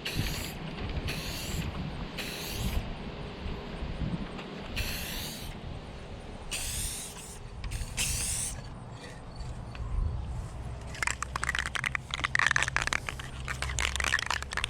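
Aerosol can of chrome spray paint hissing in six short bursts of about half a second each. Near the end a rapid rattling follows for a few seconds, with wind rumbling on the microphone throughout.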